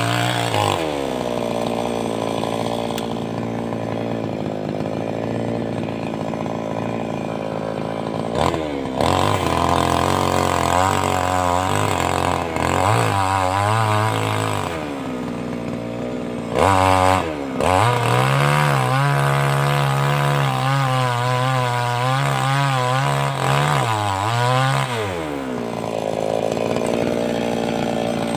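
588X petrol chainsaw running hard, its engine speed falling and rising over and over: short revs, then a long stretch at high speed with a wavering pitch, then dropping back. The saw is cutting through sengon (albasia) logs.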